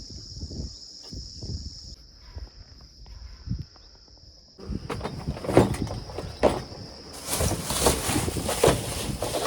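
Insects buzzing as one steady high-pitched drone. From about halfway, louder rustling and knocking comes in over it, like something being handled or someone moving close to the microphone.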